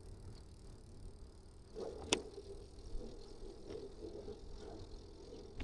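Low, steady rumble of riding a bicycle, with wind and tyre noise, and one sharp click about two seconds in.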